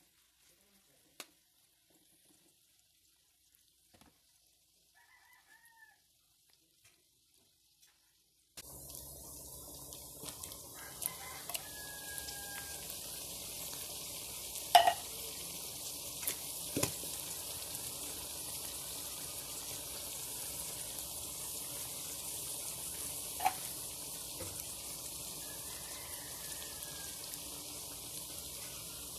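Ground meat and sliced hotdogs frying in oil in a pan: after a near-silent start with a few light ticks, a steady sizzle sets in suddenly about a third of the way in. A few sharp clicks of a spatula against the pan sound over the sizzle, the loudest about halfway through.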